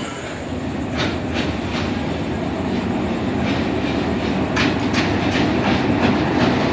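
Train running on rails, its wheels clacking over rail joints at irregular intervals over a steady rumble that grows steadily louder.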